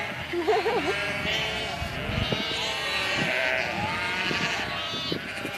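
Flock of sheep bleating, with several calls overlapping throughout.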